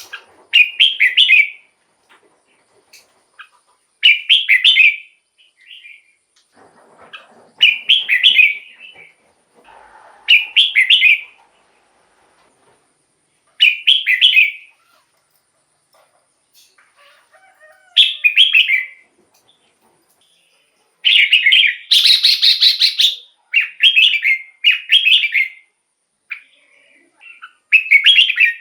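Red-whiskered bulbul singing short, loud whistled phrases, one about every three to four seconds, then several phrases in quick succession from about 21 seconds in.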